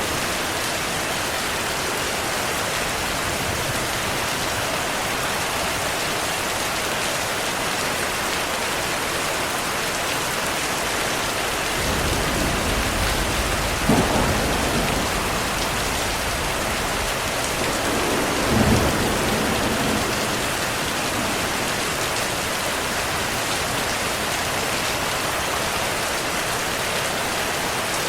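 Steady heavy rain hissing, with thunder rumbling from about halfway through and two sharper claps in it.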